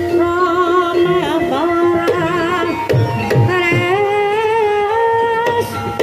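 Javanese gamelan music accompanying a kuda kepang (ebeg) dance: a singer holds long, wavering notes that slide between pitches, over repeated drum strokes.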